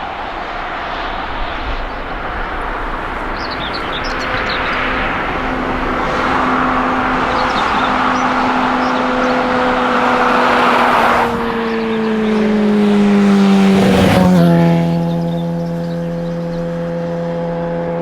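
Jet airliner passing close by: its engine noise builds to a peak about fourteen seconds in, and its engine hum drops in pitch as it goes past, then holds steady at the lower pitch.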